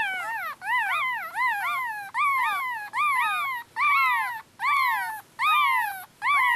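Newborn teacup poodle puppies crying for their mother: a run of high-pitched squealing cries, each rising then falling in pitch, a little over one a second.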